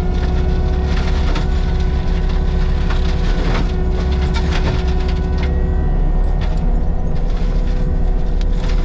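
Heavy equipment's diesel engine running steadily under a constant high whine, with frequent sharp clanks and knocks over it.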